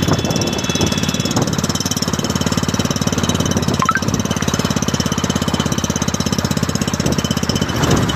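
Hero Splendor Plus motorcycle's single-cylinder engine idling through an aftermarket GCL silencer, the exhaust giving a rapid, even thumping beat.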